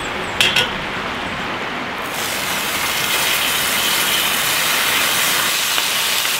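A cast iron frying pan set down on a metal grill over a campfire with two short clanks, then bacon laid into the hot oil starts sizzling about two seconds in and keeps up a steady hiss.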